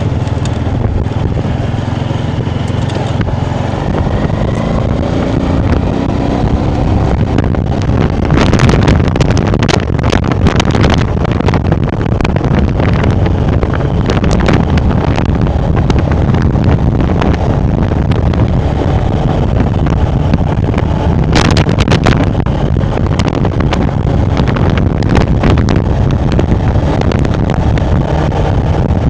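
Motorbike engine running as it is ridden along, its revs rising in the first few seconds, with wind buffeting the microphone and occasional sharp knocks.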